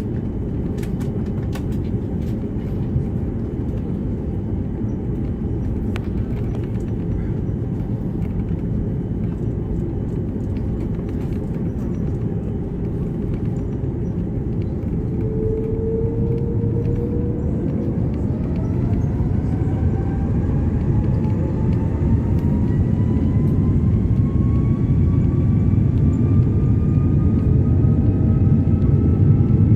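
Cabin sound of an Airbus A330 with Rolls-Royce Trent 700 engines: a steady low rumble, then about halfway through the engines spool up to takeoff thrust. A whine rises steadily in pitch and the rumble grows louder, the start of the takeoff run.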